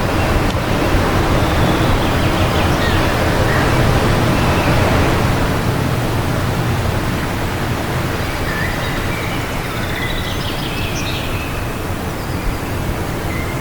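Steady wind blowing, heaviest in the low end, with small birds chirping faintly now and then, more often in the second half.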